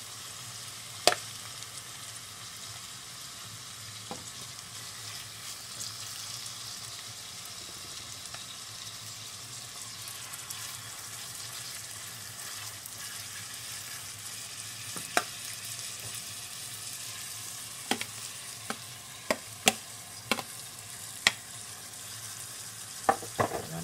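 Chicken pieces frying with onions and garlic in oil in a pan, a steady sizzle. A metal spoon stirring them knocks sharply against the pan now and then, once about a second in and more often near the end.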